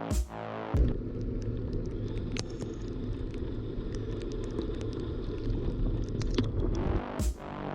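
Wind rumble and tyre noise from a bicycle ride, with scattered small clicks, heard on an action camera's microphone. Electronic music plays briefly at the start and returns near the end.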